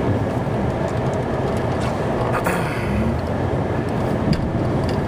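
Snow plow truck's engine running steadily under way, a low rumble, with a brief click about two and a half seconds in.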